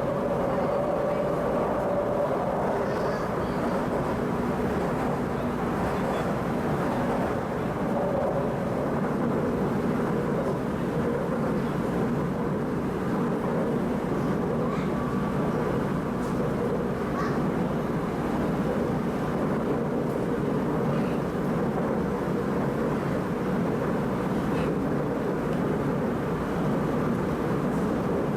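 Shanghai Metro Line 11 train heard on board while running between stations: a steady rumble of wheels on rail with a faint electric motor whine.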